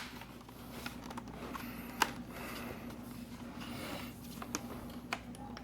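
Plastic laptop case parts being handled and pressed back into their clips: one sharp snap about two seconds in, soft scraping after it, and a few fainter clicks near the end.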